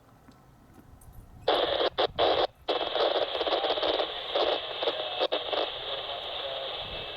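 Railroad scanner radio opening up on a transmission with no clear words, giving a steady hiss of static. It starts suddenly about a second and a half in and cuts out briefly a few times.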